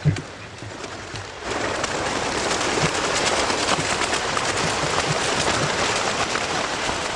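A big flock of ducks dropping in, a dense rush of many wings that swells up about a second and a half in and holds, after a single thump at the very start.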